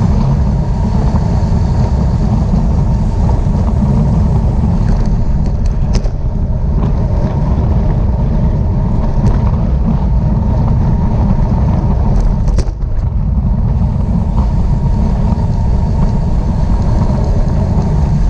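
Wind rushing over a moving microphone: a loud, steady low rumble, with a couple of brief clicks about six seconds in and again near the middle.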